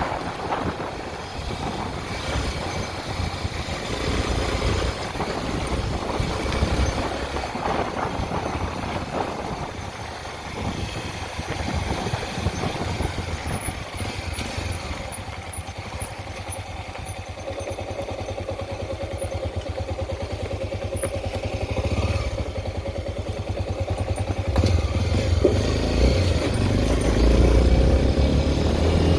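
Honda XR 250 Tornado's single-cylinder four-stroke engine running on the move, with a heavy low rumble. Its pulsing becomes steady and even about halfway through, and it gets louder over the last few seconds.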